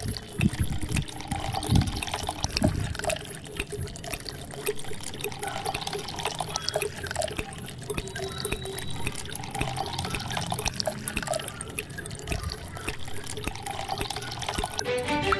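Small amounts of water trickling and dripping, with many small irregular drops and splashes.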